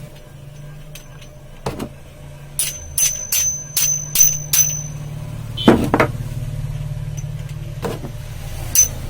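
Small metal ceiling-fan parts clinking: a quick run of about seven light metallic taps with a bright ringing tone, about three a second, then a couple of duller knocks and one last ringing tap near the end, over a steady low hum.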